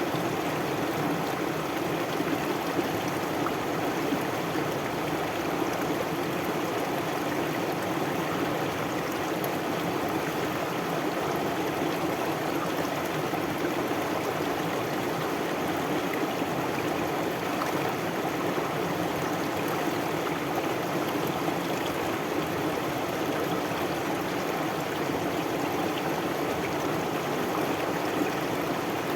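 A stream flowing steadily, an even babbling rush of water that holds without a break.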